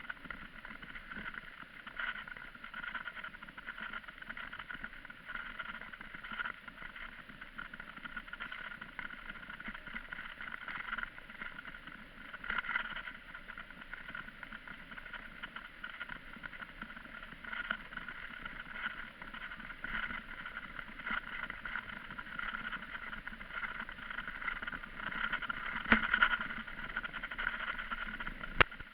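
Steady rushing ride noise of a bicycle in motion, swelling and easing at times, with a sharp click near the end.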